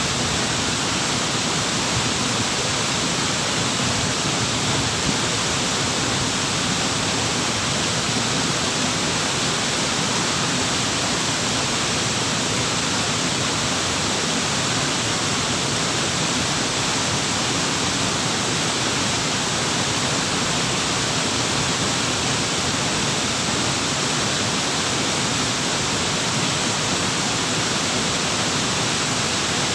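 Waterfall: falling water rushing in a steady, unbroken roar with no changes.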